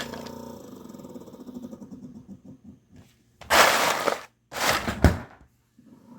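Toshiba refrigerator making erratic noises that the owner takes for a sign it is about to break: its steady hum cuts out into a rattle that slows and stops, then two loud rushing bursts, the second ending in a sharp thump, before the hum starts again.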